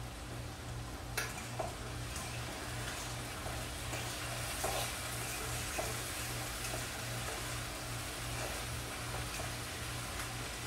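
Potatoes frying in hot oil in a pan, sizzling steadily, with a few clicks and scrapes of a utensil as they are stirred.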